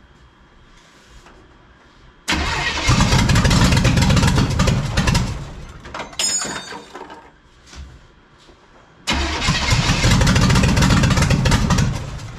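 NASCAR small-block V8 fires and runs loud for about three seconds, then dies. A few seconds later it fires again and dies the same way: the engine is only just getting fuel and won't keep running yet.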